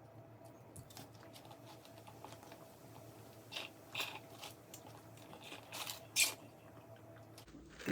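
A person chewing and biting into crunchy fast food, with a few sharp crunches between about three and a half and six and a half seconds in.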